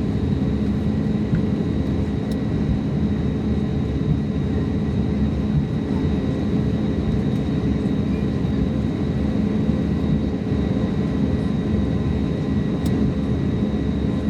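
Passenger jet running steadily as heard from aboard: a constant low rumble with a faint steady high whine.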